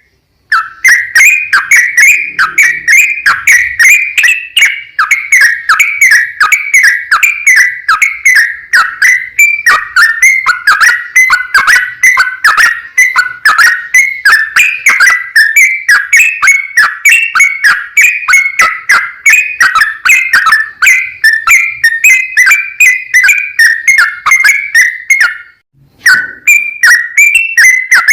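Yellow-vented bulbul (trucukan) singing a long, rapid, unbroken run of chirping, whistled notes, with one brief break near the end.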